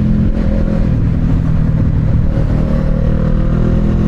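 Motorcycle engine running while being ridden, its note shifting about a third of a second in and again around halfway.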